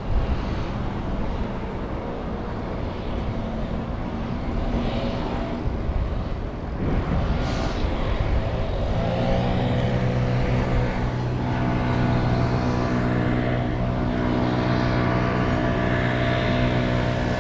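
Wind rumble on the microphone while riding. From about nine seconds in, a steady engine hum joins it and holds at an even pitch.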